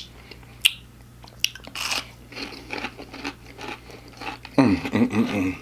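Close-miked chewing of a crispy fried chicken tender: scattered crisp crunches and mouth clicks, with a short stretch of voice near the end.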